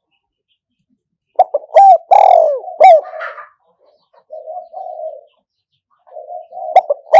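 Spotted dove cooing as a decoy to draw in wild doves. After a second and a half of quiet comes a loud phrase of several sharply falling coo notes, then softer, lower coos.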